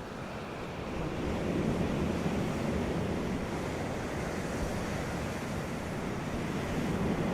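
Sea waves washing onto a beach: steady surf that swells about a second in and again near the end.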